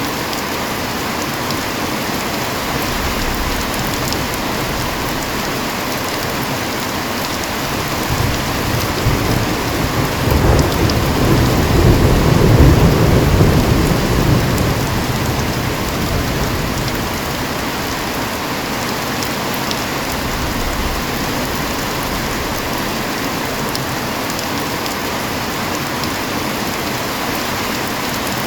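Heavy rain falling steadily, with a long roll of thunder that builds about a third of the way in, peaks near the middle and rumbles away.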